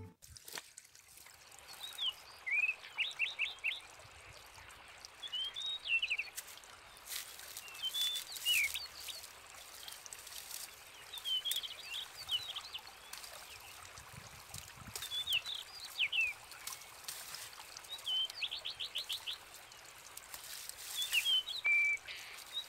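A songbird singing short phrases of quick rising and falling notes, repeated every few seconds over a steady faint hiss, with a few faint clicks among them.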